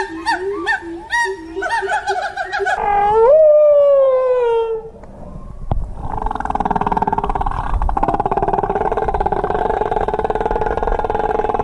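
Animal calls: a quick run of short pitched calls, then one long call that falls in pitch, then after a short pause a long, buzzing, rapidly pulsing call.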